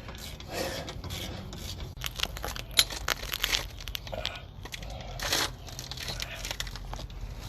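Irregular clicks, clinks and rustling scrapes of hand tools and metal parts being handled during brake and wheel-hub work.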